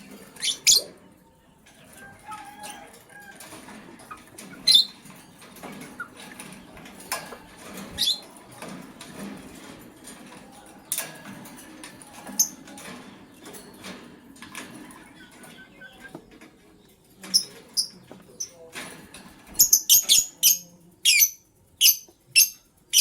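Lovebirds chirping and fluttering: short, sharp, high chirps every few seconds, then a quick run of chirps near the end, over a low rustle of wings and scrabbling feet.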